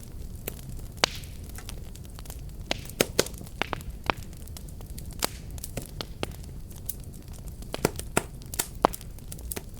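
Wood fire burning with a steady low rumble and irregular sharp crackles and pops, a few of them much louder than the rest.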